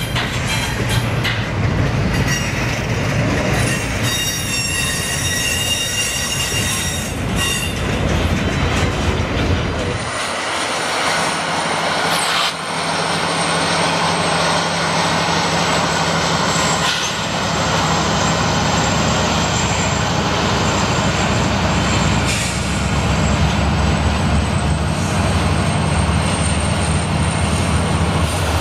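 A Union Pacific double-stack container train rolling past, its wheels clattering on the rail joints with high-pitched wheel squeal around four to seven seconds in. After about ten seconds, Union Pacific diesel locomotives pass with a steady low engine drone.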